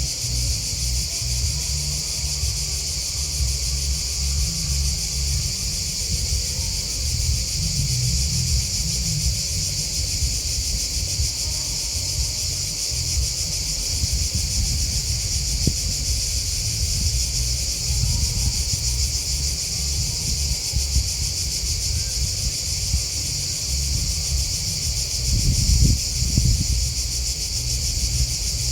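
A steady, high-pitched chorus of chirping field insects, grasshoppers and crickets, with an uneven low rumble underneath that swells briefly near the end.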